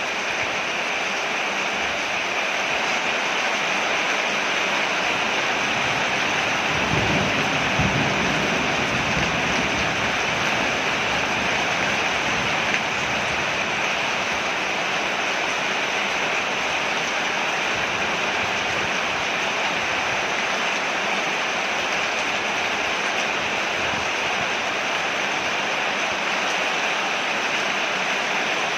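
Steady rain falling on a porch: an even, dense hiss. A brief low rumble swells about seven seconds in.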